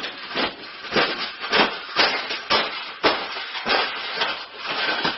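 A wire birdcage being forced and bent flat: a run of sharp metallic knocks and rattles, about two a second.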